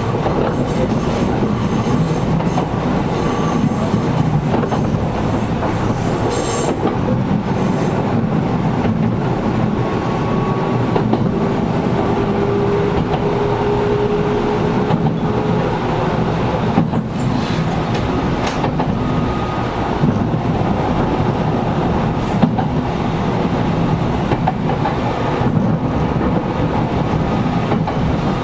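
Interior running sound of a Gakunan Railway 7000 series electric railcar under way: steady wheel-on-rail rumble with occasional rail-joint clicks and the air conditioning running. A brief high wheel squeal comes about 17 seconds in.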